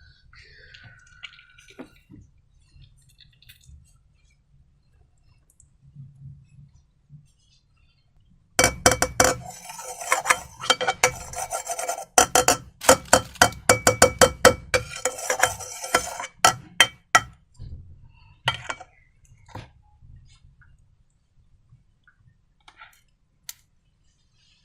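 A utensil clinking rapidly against a bowl, as when slime is being stirred and mixed, in a dense run lasting about eight seconds in the middle. Faint handling sounds come before and after.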